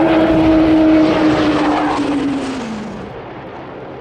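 An aircraft flying past loud and low. Its steady engine tone drops in pitch about two and a half seconds in as it goes by, and the noise fades away soon after.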